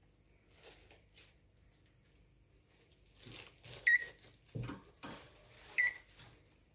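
Cockatiels moving about in their cages: rustling and scratching sounds, with two short, sharp chirps about two seconds apart.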